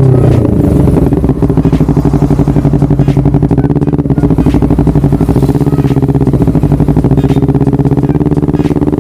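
Honda CBR250RR with a DST aftermarket exhaust, the engine dropping back from a rev in the first second and then idling steadily with a fast, even exhaust pulse.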